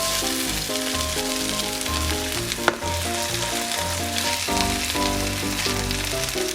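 Food frying in a pan with oil, a steady sizzle, with one sharp click near the middle.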